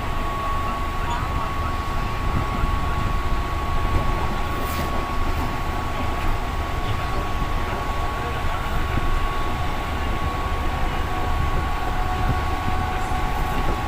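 Steady running noise of a moving passenger train heard from inside the coach: a low rumble with a thin steady whine through it.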